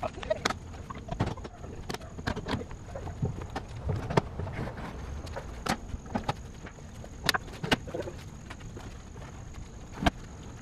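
Irregular clicks and knocks of camp gear being handled and packed away, over a low steady rumble.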